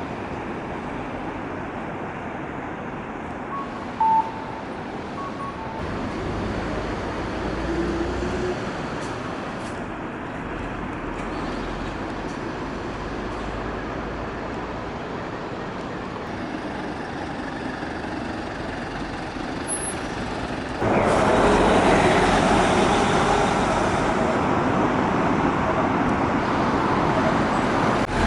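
Road traffic noise, steady, with a short beep about four seconds in; the sound jumps sharply louder about 21 seconds in and stays loud.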